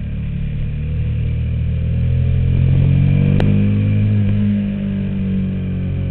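KTM Super Duke's V-twin engine running on the move, its pitch climbing and getting louder two to three seconds in as it accelerates, then easing off. A single sharp click about three and a half seconds in.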